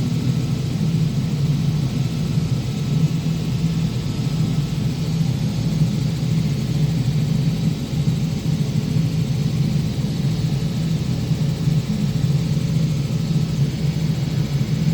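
Helicopter engine and rotor running steadily, a constant loud drone.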